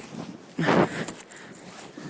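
Storm wind buffeting the phone's microphone in a snowstorm, with one strong gust just under a second in.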